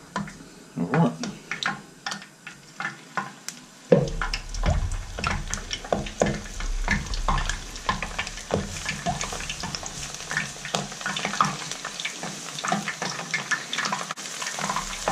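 Cornflour-coated whitebait frying in hot vegetable oil in a wok, sizzling and crackling. The pops are sparse at first; about four seconds in there is a thump, after which the crackle thickens.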